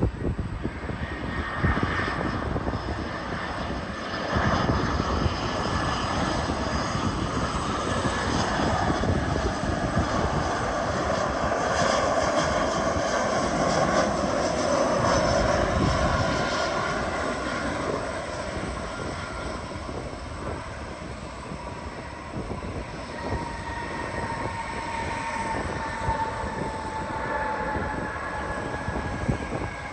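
Jet airliner coming in to land and passing the listener, its engines running with a broad rush that swells to its loudest about halfway through and then eases off. Several whining tones slowly fall in pitch as it moves away.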